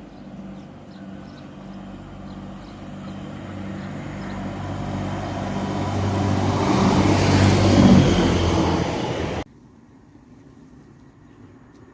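Diesel multiple-unit train approaching with its engine note growing steadily louder to a peak, then cutting off suddenly about nine seconds in.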